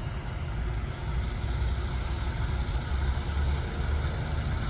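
Steady low engine rumble of a running vehicle, even in level with no rises or changes.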